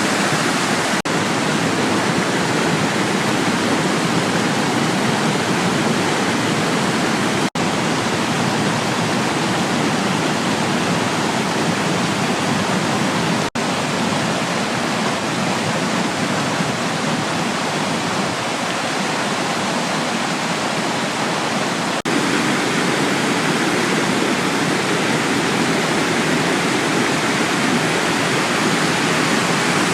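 Waterfall rushing: a steady, dense wash of falling water, broken a few times by very brief dropouts.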